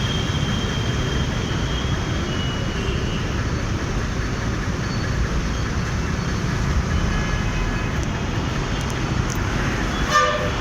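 Motorcycle ride through city traffic: steady engine, wind and road rumble, with a thin high whine in the first few seconds. A short vehicle horn honk sounds near the end.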